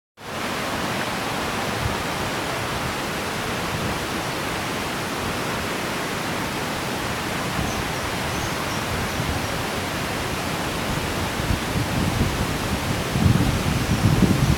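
Waterfall rushing in a steady, even roar of falling water. Uneven low rumbling joins in about three quarters of the way through and grows towards the end.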